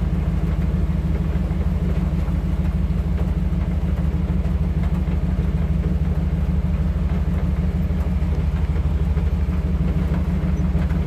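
Truck driving slowly, a steady low drone of engine and road rumble heard from inside the cab.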